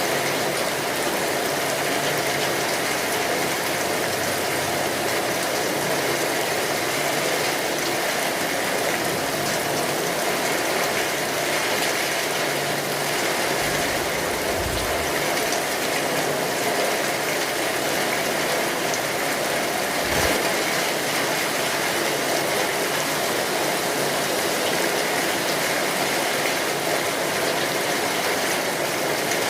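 Steady rainfall, a dense, even patter of drops. Two brief low thumps come through, about fourteen and twenty seconds in.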